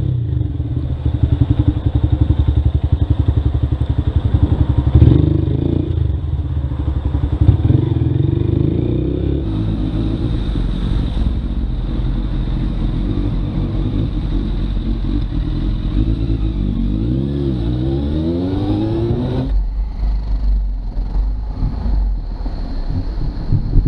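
Motorcycle engine running while being ridden, heard from the bike itself: pulsing strongly for the first few seconds, then steadier. About three-quarters of the way in it gives way abruptly to a low wind rumble on the microphone.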